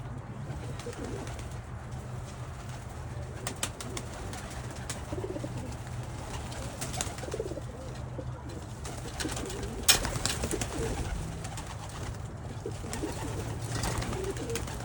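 Pigeons cooing, a string of low warbling coos over a steady low hum, with one sharp knock about ten seconds in.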